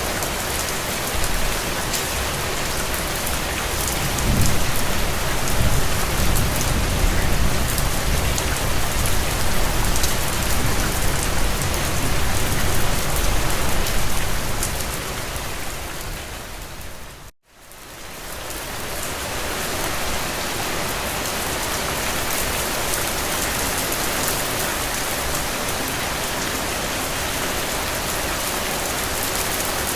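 Steady rain falling, with a low rumble of thunder from about four to fourteen seconds in. About seventeen seconds in, the rain fades out to a moment of silence and fades back in.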